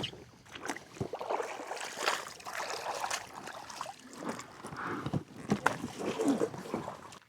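Irregular splashing and trickling of water, mixed with short knocks and rustles of handling.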